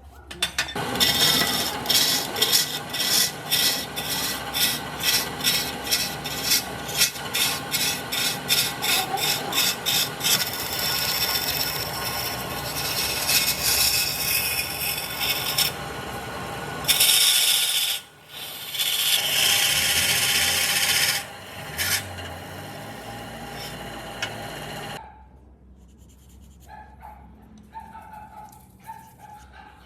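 Wood being worked by hand with a rasping or sawing stroke, in a steady rhythm of about two strokes a second. This gives way to a more continuous scraping on the wood, broken once briefly, and turns much quieter near the end.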